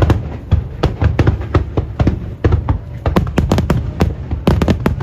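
Aerial fireworks bursting in a rapid barrage, several sharp bangs and deep booms a second.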